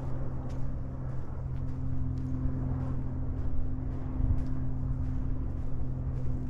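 Steady low engine hum, with light footsteps ticking along the trail about twice a second.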